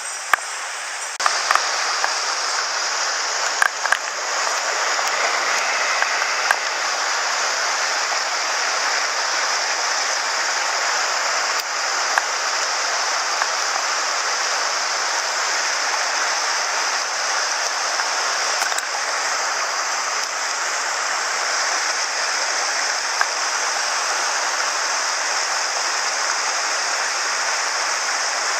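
Mountain headwater stream rushing steadily. The rush grows louder about a second in, and a few short clicks sound over it in the first several seconds.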